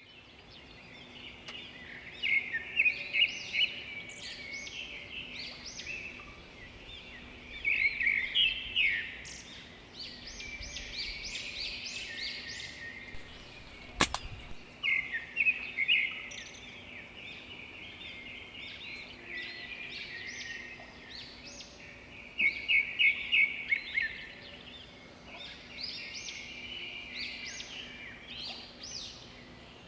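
Birds chirping and calling in repeated bursts of rapid high notes over outdoor background noise, with a single sharp click about halfway through.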